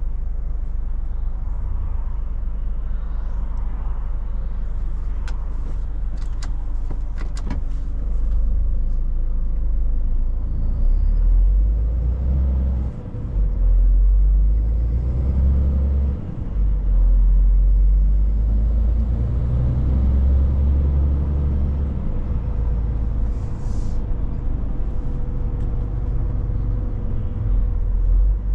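Scania 500 S truck heard from the cab while driving: a steady low engine and road rumble, with a few short clicks early on and brief dips in level about halfway through.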